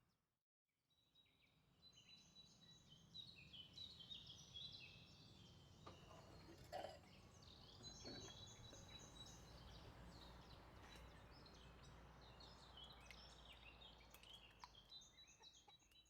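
Faint birdsong: many short, high chirps going on continuously, with a few soft clicks about halfway through.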